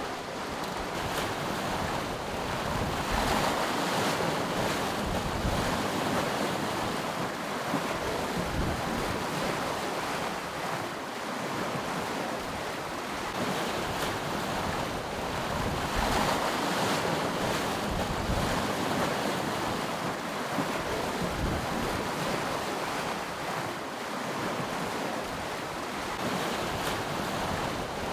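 Choppy sea rushing and splashing along a sailing catamaran's hulls under sail, with wind buffeting the microphone. The water noise swells and eases, louder a few seconds in and again about halfway through.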